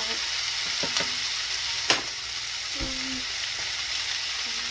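Food sizzling in hot oil in a frying pan, a steady hiss, while a utensil stirs it. About two seconds in there is one sharp clack of the utensil against the pan, with a few lighter knocks around it.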